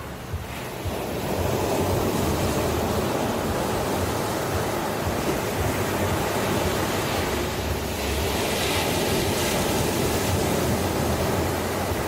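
Ocean waves breaking and washing on a shore: a steady rush of surf that swells up about a second in, with a hissier wash of a breaking wave in the second half.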